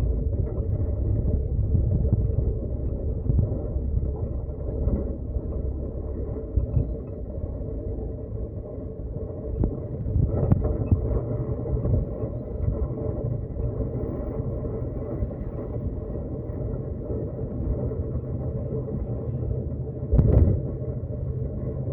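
Road vehicle running on a road: a steady low rumble, with a louder jolt about ten seconds in and another near the end.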